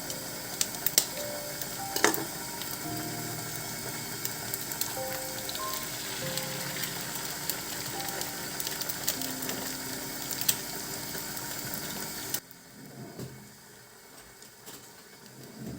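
Food sizzling in a frying pan, a steady hiss with a few sharp clicks, which cuts off suddenly near the end.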